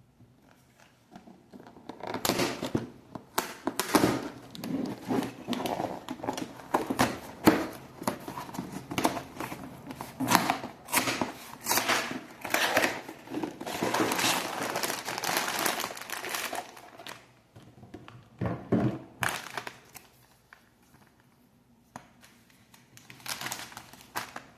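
A Lego set's cardboard box being opened and its plastic parts bags and contents handled: crinkling, rustling and tearing in irregular bursts, busiest for the first two-thirds, with shorter bursts near the end.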